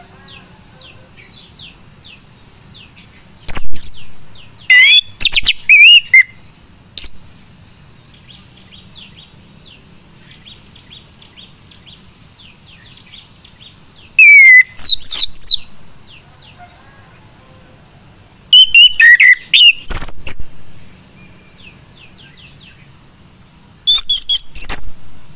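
Male chestnut-capped thrush singing: four loud bursts of fast, varied, high whistled song, each a second or two long, with pauses between them. Faint, quick, high chirps repeat steadily through the pauses.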